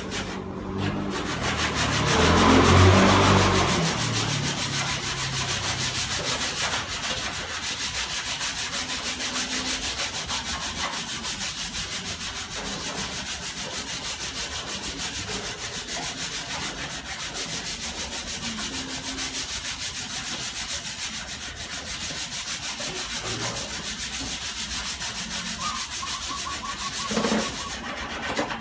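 80-grit sandpaper rubbed back and forth over cured body filler on a dented car panel, in steady rhythmic strokes. It is loudest about two to three seconds in.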